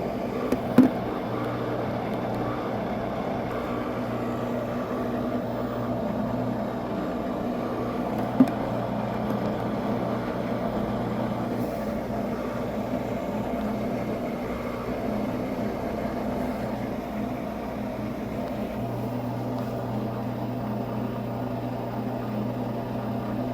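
Hotel coin-operated washing machine humming steadily with a low drone. It is drained and idling just before its final spin. A couple of faint clicks come about a second in and about eight seconds in.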